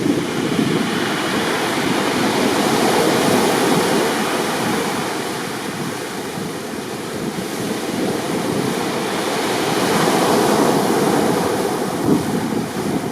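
Rough sea waves breaking heavily in a continuous roar of surf, swelling loudest about three seconds in and again around ten seconds.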